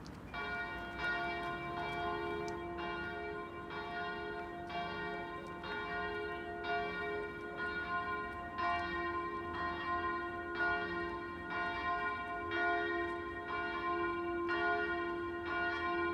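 Church bells ringing: several bells struck in a repeating pattern of about three strikes every two seconds, each note ringing on under the next.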